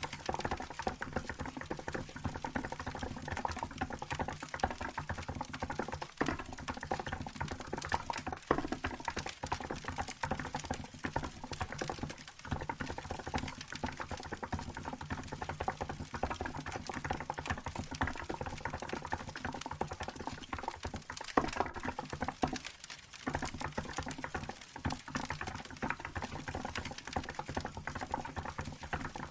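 Continuous typing on a Hansung GK868B electro-capacitive keyboard with milk keycaps: a dense, steady run of soft keystrokes with short pauses here and there.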